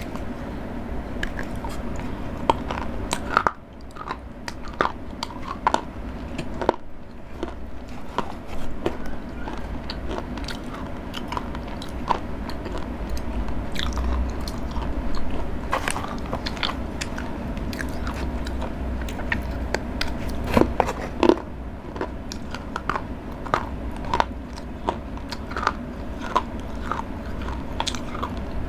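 Cadbury Dairy Milk chocolate being bitten and chewed close to the microphone: irregular crunches and clicks, a few sharper snaps standing out, over a faint steady low hum.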